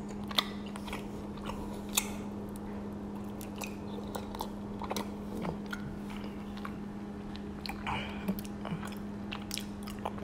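Close-miked chewing of raw honeycomb: wet, sticky smacking with many small irregular clicks as the waxy comb is worked in the mouth and pulled apart by sticky fingers. A steady low hum runs underneath.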